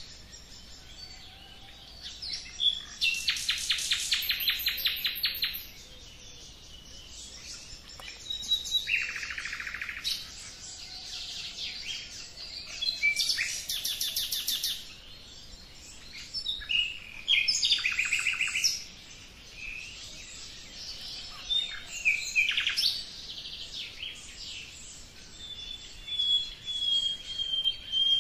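Songbirds singing: bursts of fast, high trilled song every few seconds, and a thin, high, steady whistle held for a few seconds near the end.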